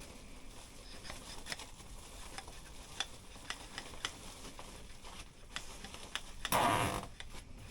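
Light handling noises: scattered small clicks and taps, with a louder rustling burst about six and a half seconds in.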